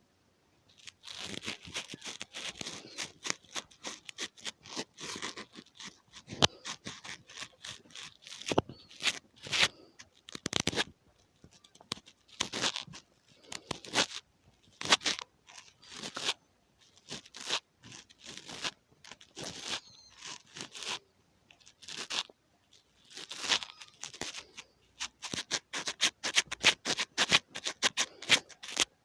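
ASMR ear-cleaning sounds: an ear pick scraping and scratching close against a microphone, giving irregular crackles and clicks in clusters with short pauses.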